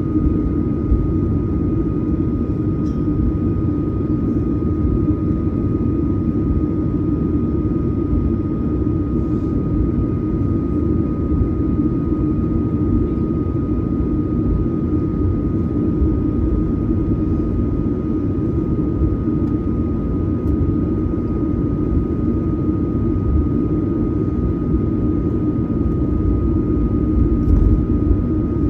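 Steady cabin drone of a Boeing 737-900ER heard from a window seat: a deep rumble of its CFM56 turbofan engines and airflow, with a thin constant whine above it and no change in pitch.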